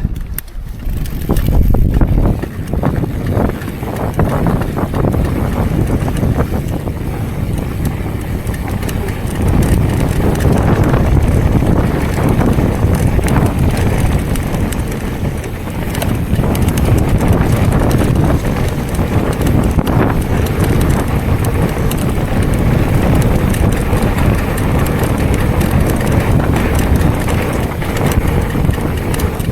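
Mountain bike riding down a rough trail: wind buffeting the camera microphone over a steady rumble of tyres, with the bike knocking and rattling over bumps.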